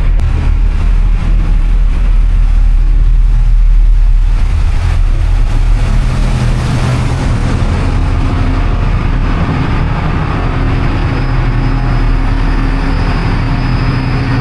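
A boat's engine running underway: a loud, steady low drone, with a clearer hum coming through from about six seconds in, over a steady rushing noise.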